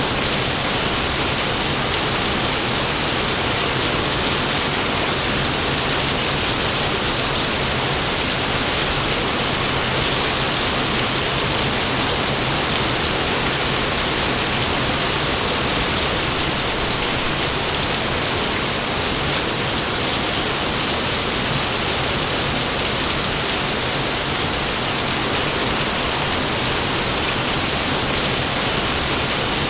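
Heavy rain pouring in a steady, even hiss.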